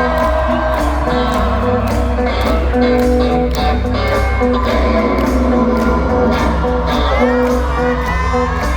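Live rock band playing through a concert hall PA: a steady drum and bass groove under electric guitar, with crowd cheering.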